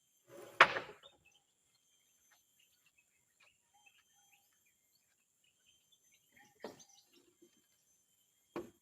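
Sparse sharp knocks of wooden floorboards being handled and fitted: one loud knock about half a second in, then two more near the end. Faint bird chirps can be heard between them.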